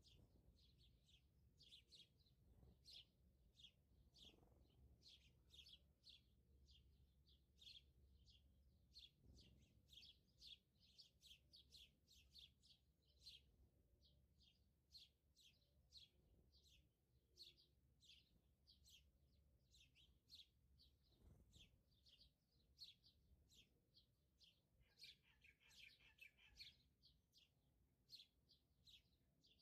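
Faint, rapid bird chirping, a few short high chirps a second, with a brief warbling call near the end.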